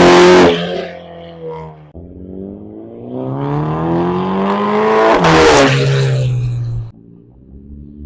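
BMW X2 M35i's B48 turbocharged four-cylinder, breathing through a catless downpipe, being revved. A rev dies away at the start, then the engine climbs in pitch for about three seconds, falls away and drops back to a low idle about seven seconds in.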